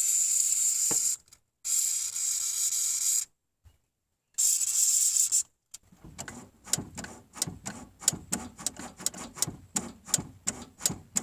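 Aerosol can of PB Blaster penetrating oil sprayed in three hissing bursts onto a sticky throttle cable. After about six seconds it gives way to rapid rhythmic clicking, about four clicks a second.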